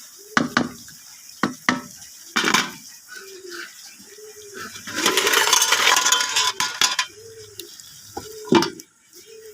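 Metal utensils clinking and scraping against a cooking pot, with a louder stretch of hissing from about five to seven seconds in. A low call repeats about once a second in the background.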